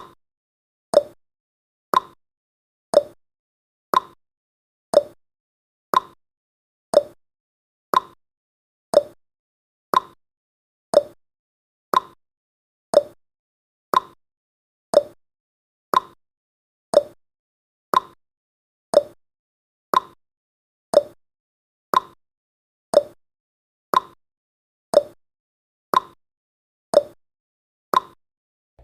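Countdown timer's clock-ticking sound effect: one short, sharp tick each second, alternating a lower and a higher tick like a tick-tock, marking off the timer's final seconds.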